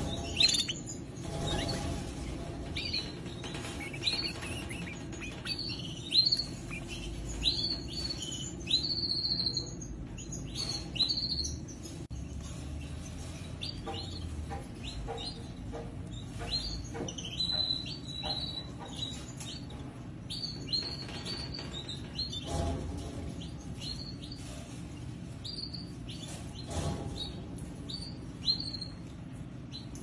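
Small cage birds chirping: many short high chirps and call notes in quick irregular runs, with a few soft bumps in between.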